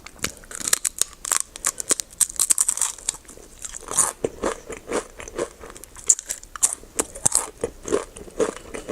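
Close-up crunchy biting and chewing of a chocolate snack, a dense run of irregular crackling crunches with a brief pause about six seconds in.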